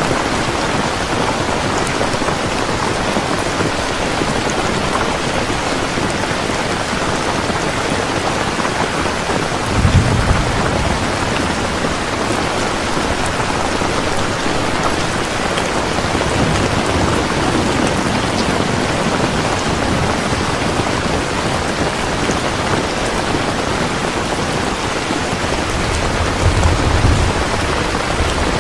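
Heavy rain falling steadily, with two short low rumbles of thunder, one about ten seconds in and another near the end.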